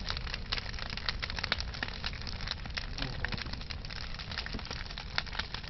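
Large wood bonfire burning, crackling with many irregular sharp pops over a steady low rumble.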